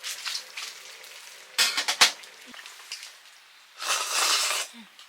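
Camp cooking sounds: a few sharp clinks and knocks of utensils against cookware, loudest about two seconds in, then a short burst of sizzling a little before the end.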